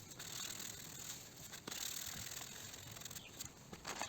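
500-grit sandpaper rubbing over cured epoxy primer on a car body panel: a faint, steady scratchy rustle, with a few light clicks.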